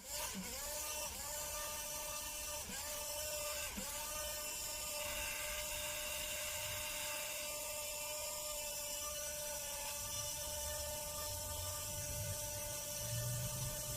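RC helicopter's motor and rotor running with a steady high-pitched whine that starts suddenly. The pitch dips briefly three times in the first four seconds, then holds steady.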